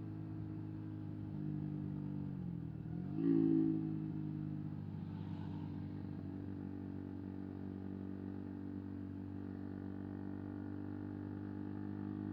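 125 cc motorcycle engine running at steady revs while riding. About two seconds in the revs dip and then pick up again, loudest just after three seconds, before settling back to an even note.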